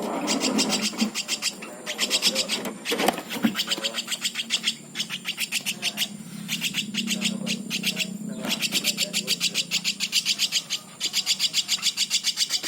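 Woodpecker chicks begging: a rapid, even, high-pitched pulsing chatter that breaks off briefly a couple of times, with a low murmur of voices underneath.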